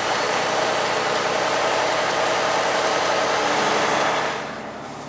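Truck on a snowy road: a loud rush of engine and road noise that holds steady, then drops away sharply about four seconds in.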